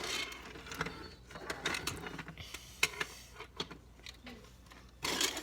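Small objects being handled and packed: irregular clicks, taps and rustling, with short scraping stretches at the start and near the end.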